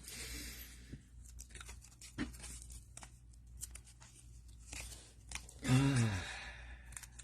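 Paper and tape being handled on a craft table: a short tearing rustle at the start, then scattered small clicks and taps. About six seconds in there is a brief low vocal sound that falls in pitch.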